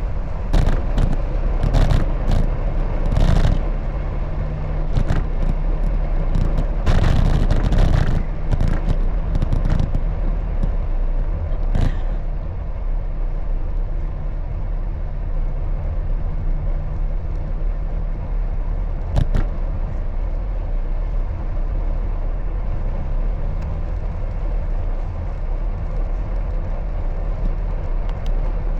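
Steady rumble of wind and road noise while riding a bicycle through city traffic, with a run of sharp rattles and knocks over the first dozen seconds and one more knock later on.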